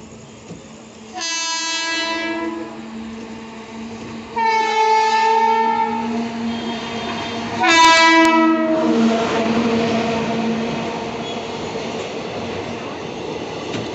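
Train locomotive horn sounding three separate blasts, each one to two seconds long, as the train approaches, the third the loudest. The train then runs through with a steady rush of wheels on the rails as the coaches pass.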